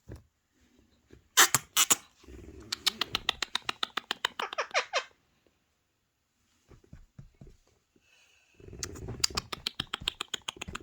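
Parrot calls: two sharp squawks, then a run of rapid clicking chatter ending in a falling squawk, a pause, and another run of rapid clicking chatter near the end.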